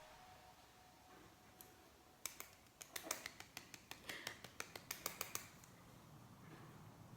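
Near silence broken by a quick run of light, sharp clicks, about twenty in three seconds, starting about two seconds in.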